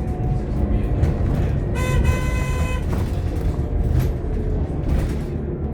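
Scania K230UB OmniLink bus running on the road, its engine and road noise a steady low rumble heard from inside the saloon. About two seconds in, a vehicle horn sounds for about a second, and a few sharp rattles or knocks follow.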